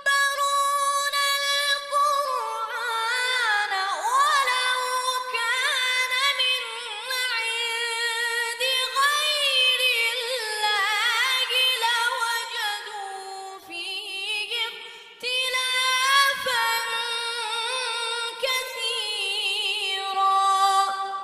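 A song: a high female voice singing a melody with wavering, ornamented runs, pausing briefly twice in the second half.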